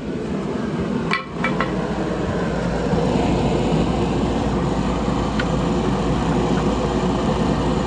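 A few sharp metal clinks about a second in, then a machine starts running and keeps on steadily, getting louder over the next second or so.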